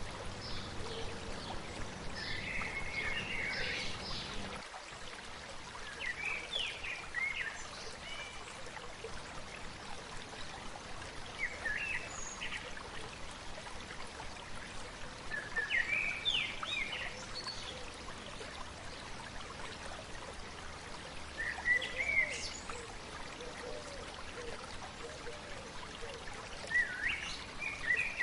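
A stream flowing steadily, with a bird singing short chirping phrases about every five seconds. The low rumble under the water drops away suddenly about five seconds in.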